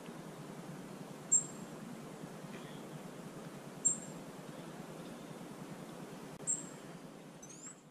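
A small bird calling with short, high double chirps about every two and a half seconds, over a steady low background hiss.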